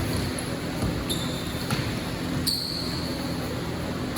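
A basketball bouncing on a gym court during a game, over the general noise of play.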